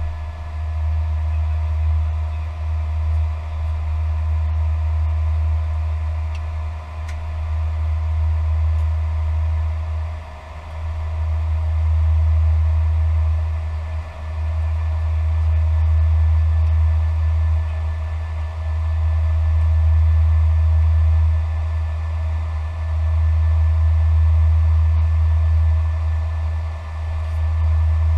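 Airbus A320 cockpit noise: a loud, steady low rumble that swells and dips every few seconds, with several constant whining tones above it.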